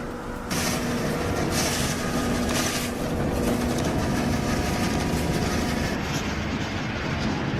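Heavy machinery running: a steady engine drone under rumbling, rattling noise, which gets louder about half a second in.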